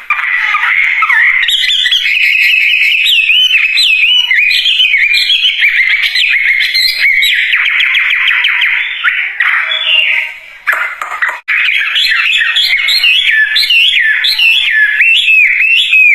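Wambie bird singing loudly and without pause, a fast, varied run of whistled notes, chirps and trills, with brief breaks about ten and a half and eleven and a half seconds in.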